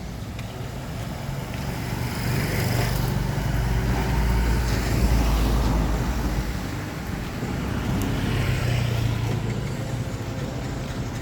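Motor vehicles passing on a road. One swells up and is loudest about five seconds in, and a second passes about eight to nine seconds in.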